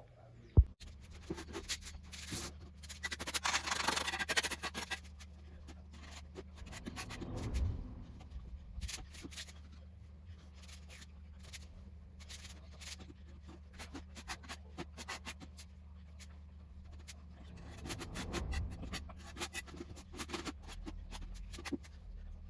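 Irregular scraping and clicking of hand masonry work, stones being set on a wall with tile adhesive, with a sharp click under a second in and busier bouts of scraping early on and near the end. A steady low hum runs underneath.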